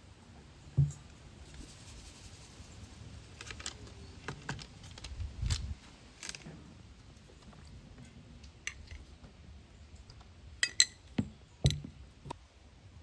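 Scattered knocks, taps and clicks of objects being handled: a thump about a second in, a loose cluster of taps with a low thud in the middle, then a quick run of clicks and two sharper knocks near the end.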